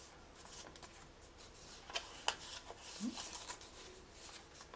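Faint rustling and crinkling of a sheet of paper being folded and creased by hand, with a few sharp ticks about two seconds in.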